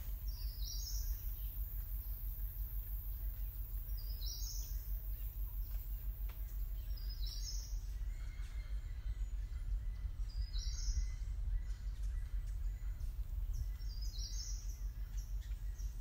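Nature ambience: a short, high bird call repeats about every three and a half seconds, five times, over a steady low hum.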